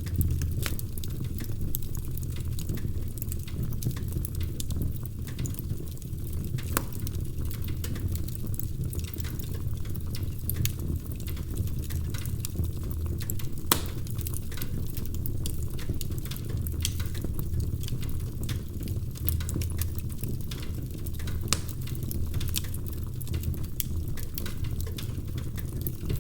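Wood fire crackling in a fireplace: a steady low rumble with frequent small pops and crackles, and two louder pops about 14 and 21 seconds in.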